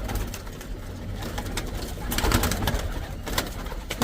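Domestic pigeons cooing in their pen, with scattered sharp clicks and a louder patch a little past halfway.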